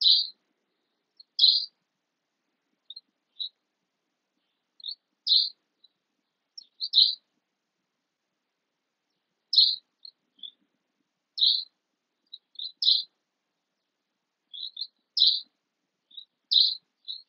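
A small bird chirping: short, high chirps, singly and in pairs, every second or so with irregular gaps.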